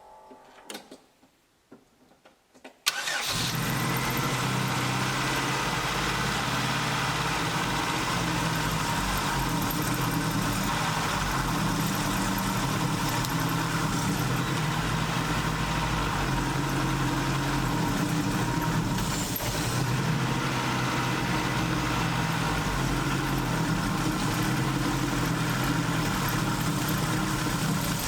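Old Opel/Vauxhall car engine starting about three seconds in, now that the starter cranks, then running steadily at idle. Its running sound is one the owner calls awful, like a broken lawnmower.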